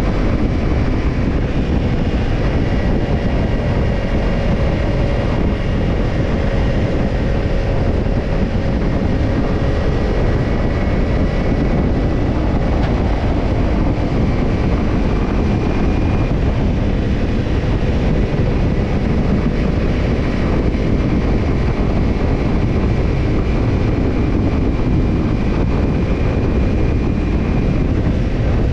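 Kawasaki Ninja 250 parallel-twin engine running steadily through a BEET NASSERT Evolution Type II titanium slip-on muffler while the bike is ridden, with wind noise over the microphone.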